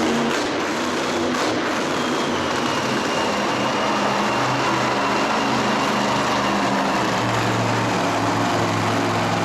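Motorsport engines running and revving in an arena, their pitch shifting up and down. Two short knocks come about half a second and a second and a half in.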